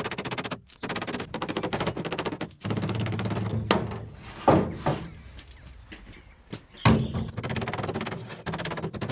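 Metal hammering on the aluminium rear tub of a Land Rover Series 3: fast, even runs of blows, about a dozen a second, broken by short pauses, with a few single heavier strikes.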